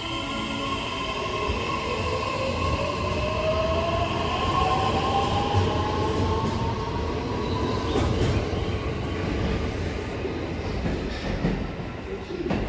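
E131 series electric train pulling away: the traction motors' whine rises steadily in pitch as it gains speed, over a low rumble of wheels on rail.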